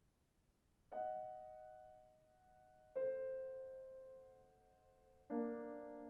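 Piano playing three separate chords, each struck about two seconds after the last and left to ring and fade.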